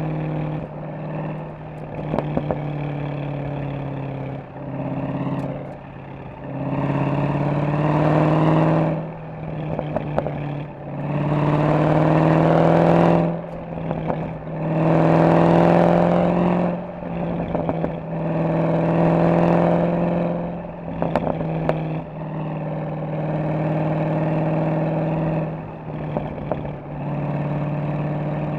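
Mercedes-AMG SL63's V8 engine and exhaust on the move: about eight short surges of acceleration every two to three seconds, each easing off again, with brief crackles from the exhaust in some of the lulls as the throttle lifts.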